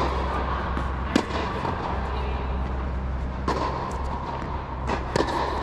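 Tennis balls struck by rackets during a drill, about five sharp pops at uneven intervals, over a steady low hum.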